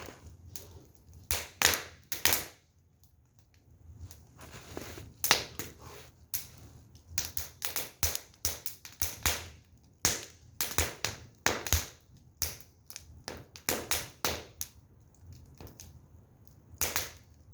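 Firewood burning, crackling with irregular sharp pops, some loud and some faint, with short quiet gaps between them.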